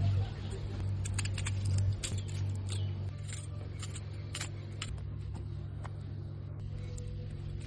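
Wood fire crackling under a grilling fish, with irregular sharp pops and snaps, thicker in the first few seconds, over a steady low hum.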